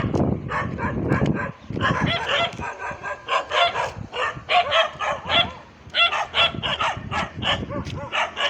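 Dog barking repeatedly in fast runs of short barks, with brief pauses about one and a half seconds and six seconds in.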